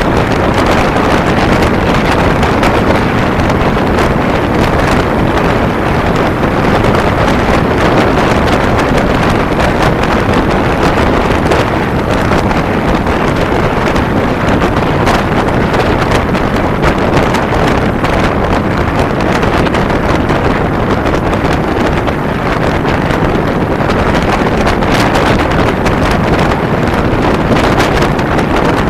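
Steady, loud wind noise on the microphone of a camera riding on a moving motorcycle, a constant rushing with no clear engine note standing out.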